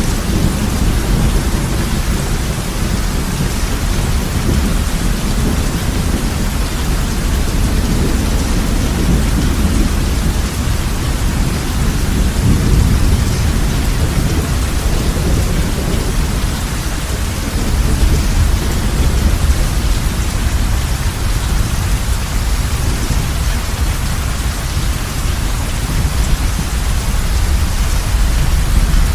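Heavy rain falling steadily on a roof, an even rushing hiss with a deep, continuous low rumble of thunder underneath that swells partway through.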